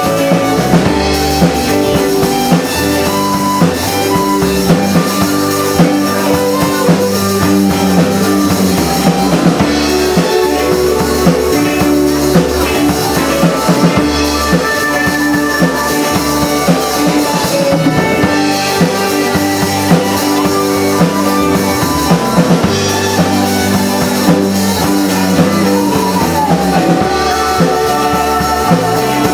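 Live rock band playing an instrumental break: drum kit and guitars, no vocals.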